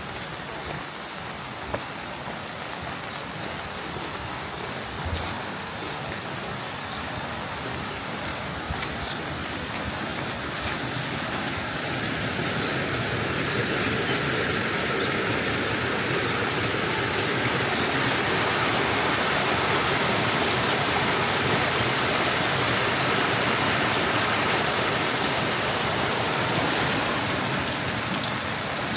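Rain falling steadily, an even hiss with a few light drip ticks near the start, growing louder about a third of the way in and then holding.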